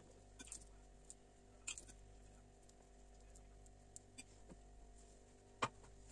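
Near silence over a low steady hum, broken by a few light, sharp taps; the loudest comes about five and a half seconds in.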